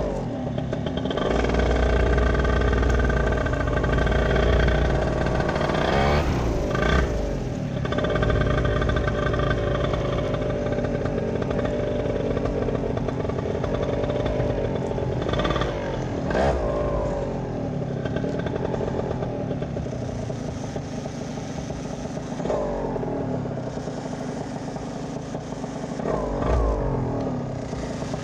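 A vehicle engine running under load, its pitch rising and falling several times as it revs up and eases off.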